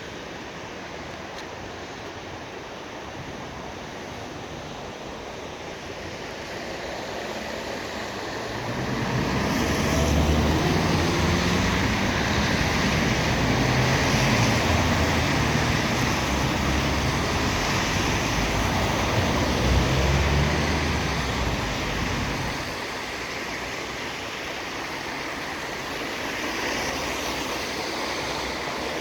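Traffic on a rain-soaked street: tyres hissing and splashing through water on wet asphalt. It swells about nine seconds in as vehicles pass with a low rumble, and eases off again past the twenty-second mark.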